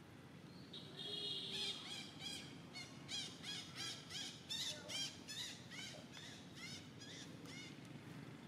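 A bird calling in a fast, even series of short high notes, each rising and falling in pitch, about two and a half a second for some six seconds, opening with one held high note.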